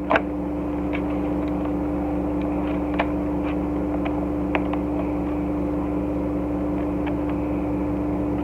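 Steady background hum with a fixed droning tone, over which a few faint sharp plastic clicks sound as a small plastic action figure's joints are worked by hand.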